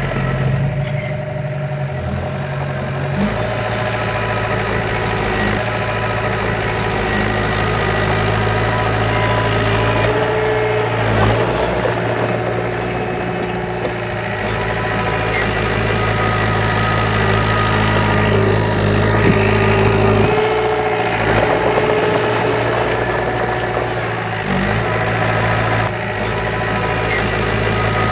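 Diesel engine of heavy earthmoving machinery running steadily, its pitch shifting a few times as the load or throttle changes.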